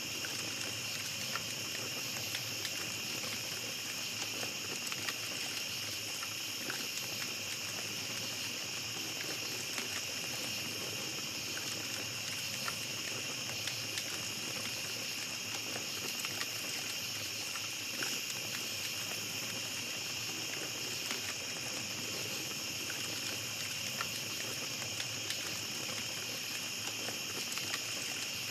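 Small campfire crackling, with scattered faint pops, over a steady high-pitched drone of night insects.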